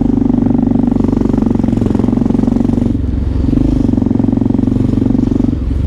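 Motorcycle engine running steadily while ridden. The note dips briefly about halfway through, then picks up again.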